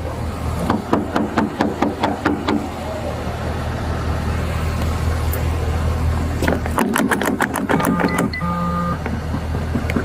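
Steady low hum of a running vehicle engine, with two runs of rapid clicking or rattling and a short electronic beep near the end.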